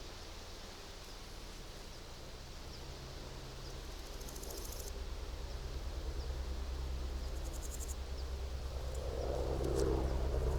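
Summer meadow ambience: insects stridulating in two short, rapidly pulsing high trills, about four and seven and a half seconds in, over a steady low wind rumble. A gust of wind rustles the plants near the end.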